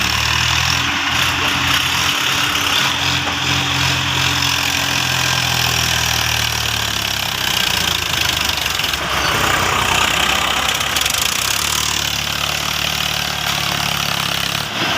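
Swaraj tractor's diesel engine running steadily, its low hum fading out about halfway through and coming back near the end, over a constant hiss.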